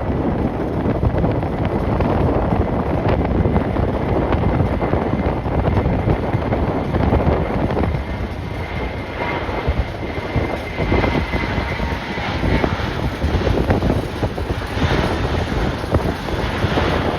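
Strong gusting wind buffeting the microphone in a steady low rumble. A faint high whine comes in about halfway through and fades a few seconds later.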